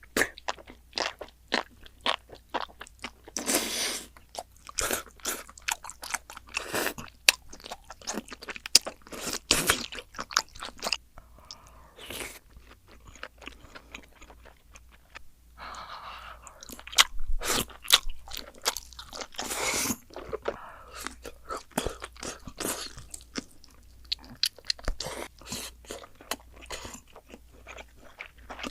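Close-miked eating: loud, irregular crunching bites and chewing of crisp food, with a few softer, wetter chewing stretches.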